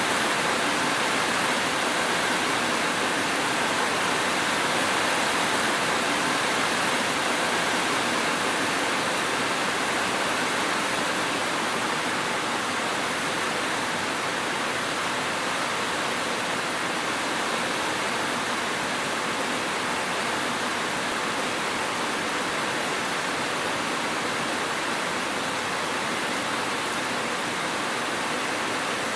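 Steady, heavy rain: an even hiss with no separate drops or thunder standing out.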